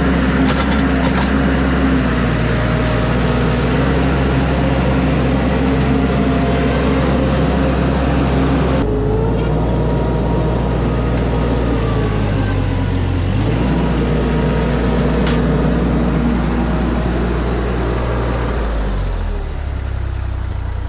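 Mini skid steer's engine running steadily while loading tree debris, its pitch dipping briefly twice, with a few short clatters near the start.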